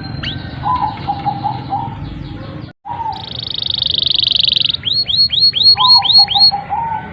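Domestic canary singing: a fast, dense trill, then a run of about seven quick downward-sweeping whistled notes, with lower warbling notes underneath. The song breaks off for an instant about three seconds in.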